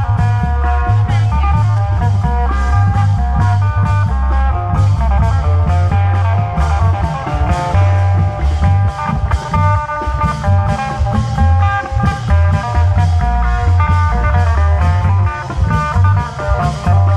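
Amplified Isan long-drum procession band music: a fast plucked-string lead melody over a heavy pulsing bass line and steady drum beats.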